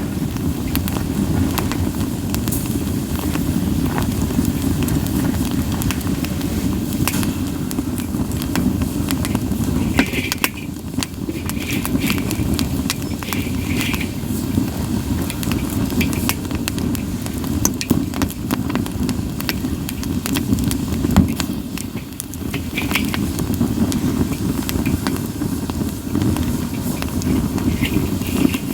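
Campfire of split sawtooth oak (kunugi) firewood burning: a steady low rush of flame with frequent sharp crackles and pops, and a few short hisses from the wood.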